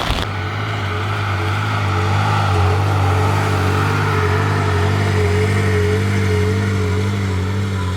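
Car engine running steadily at a constant low speed.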